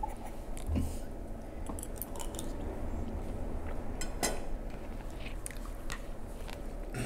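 A person chewing a mouthful of food, likely the freshly served pasta, with a couple of faint clicks about four seconds in and near the end.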